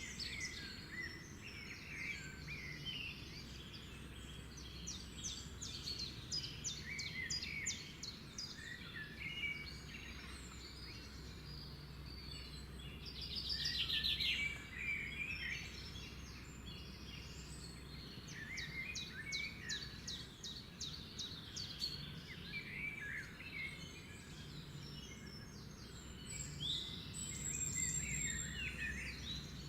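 Several birds singing and chirping, with repeated rapid trills, the loudest about halfway through, over a steady low hum.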